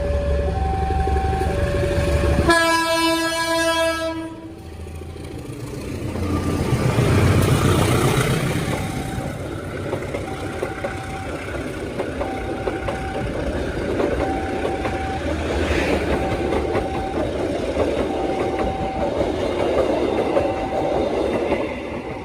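A level-crossing alarm keeps sounding, alternating between two tones. About two and a half seconds in, a diesel locomotive gives one steady horn blast of nearly two seconds. Then the locomotive's engine rumbles past, followed by the rattle of the train's cars on the rails.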